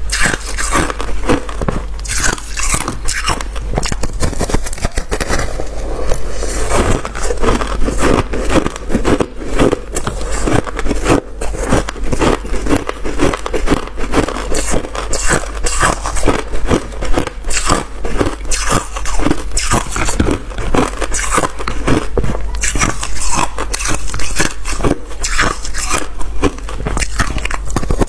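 Close-up crunching of freezer frost being bitten and chewed, with rapid, closely spaced crunches throughout and an occasional scrape.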